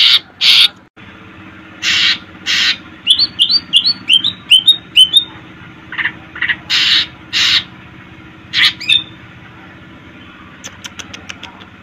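Cucak ijo (green leafbird) singing: harsh, scratchy notes broken by a fast run of about eight short whistled notes, then a few faint ticking notes near the end, over a steady low hum.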